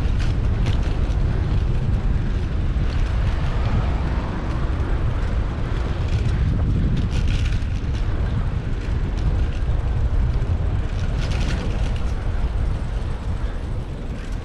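Steady low rumble of wind buffeting and road noise on a bicycle-mounted action camera while riding, with a couple of brief sharper noises about halfway through and again near the end.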